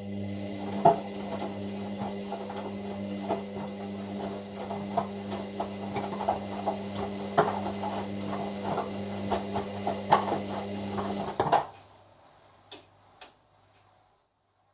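Hoover washer-dryer's drum motor humming as it tumbles the load, with irregular knocks and clatters from the load falling in the drum. The motor stops suddenly about eleven and a half seconds in, followed by two sharp clicks.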